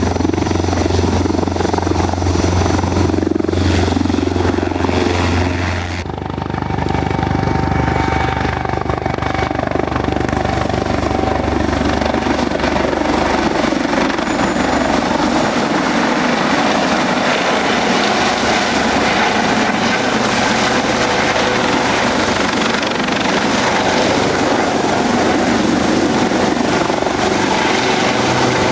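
Helicopter running close by, with a deep, steady rotor beat. About six seconds in the sound changes abruptly: the low beat weakens and a high, steady turbine whine comes up.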